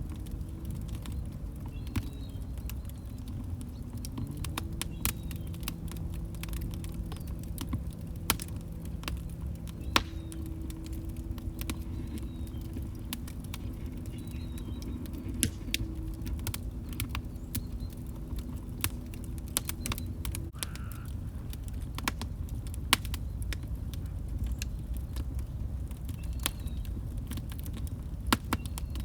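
Wood log fire crackling: a steady low rumble of flames with frequent sharp snaps and a handful of louder pops. A faint low humming tone runs under the fire from about four seconds in until about twenty seconds.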